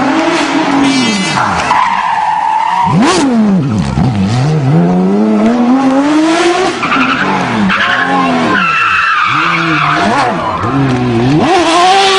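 Porsche 911 GT3 rally car's flat-six engine revving hard, its pitch climbing and dropping again and again through gear changes and lifts, with a steep fall in pitch about three seconds in as the car passes close by.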